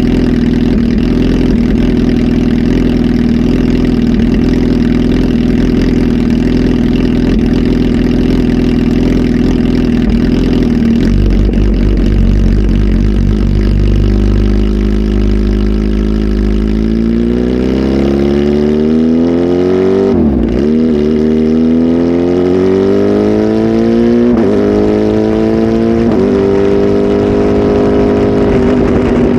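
Kawasaki ZH2 SE's supercharged inline-four, flash tuned and fitted with a full exhaust system, running loud. It holds a steady idle for about eleven seconds, then the engine note climbs slowly, drops sharply about twenty seconds in, climbs again in steps and holds higher near the end.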